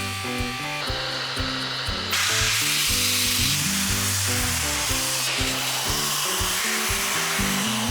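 Background music with a steady bass line, and from about two seconds in the steady hiss of arc welding on steel tube underneath it.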